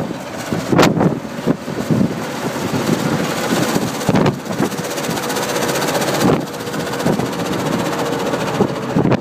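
Vehicle engine running amid strong wind, with gusts buffeting the microphone; a faint steady whine comes in about halfway through.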